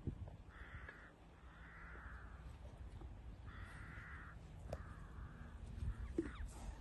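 A bird calls four times in harsh, rasping calls, each lasting about half a second to a second, over a low background rumble.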